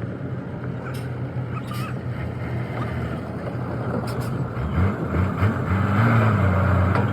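An engine running steadily. About five seconds in, its pitch slides up and down, and it then runs louder at higher revs. A few sharp clicks are mixed in.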